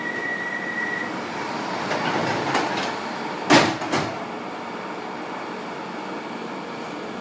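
Sliding doors of a 1972 Tube Stock train closing: a steady high warning tone ends about a second in, then the doors shut with a loud thud and a second knock just after, over the steady rumble of the carriage.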